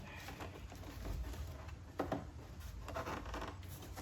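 Faint handling of plastic engine-bay trim and air box parts, with one sharp click about two seconds in.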